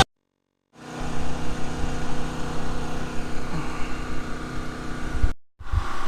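A steady mechanical hum with several held low tones, like an engine running at idle. It starts abruptly just under a second in and drops out for a moment near the end.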